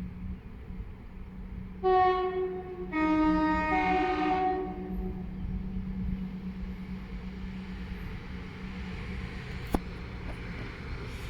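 Train horn sounding a two-tone call lasting about three seconds: a higher note, then a lower one, then the higher note again, over a steady low hum of the train. A single sharp click near the end.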